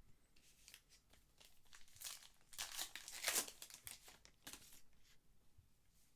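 Trading card pack wrapper being torn open and crinkled, a run of rustling that is loudest around the middle and then fades to lighter rustles.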